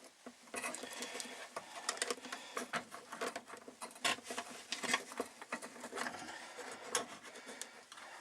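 Fuel pump assembly being eased and turned into the fuel tank opening: irregular clicking, scraping and rattling of plastic against the tank.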